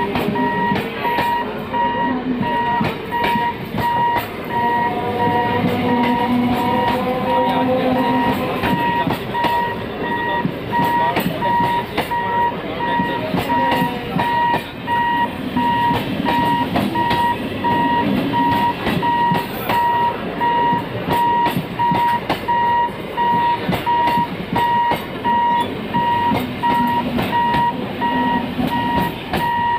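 Suburban EMU local train passing close by: a loud, steady running rumble with repeated clatter of wheels over the rails, and a rising motor whine through the first eight seconds or so. Over it, a high electronic warning tone beeps in a steady, rapid on-off rhythm throughout, typical of a level-crossing warning alarm.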